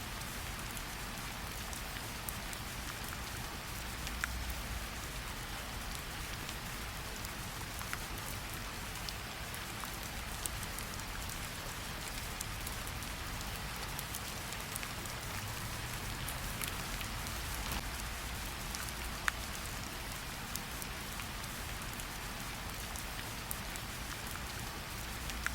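Steady light rain pattering on tree leaves, with scattered individual drops ticking out clearly.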